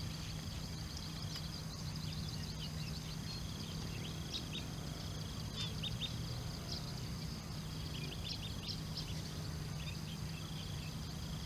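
Outdoor field ambience: a steady high-pitched drone with scattered short bird chirps and ticks over it, and a steady low hum underneath.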